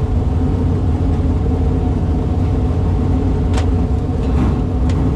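Dirt modified race car's engine running at a steady pitch and level, with two short clicks near the end.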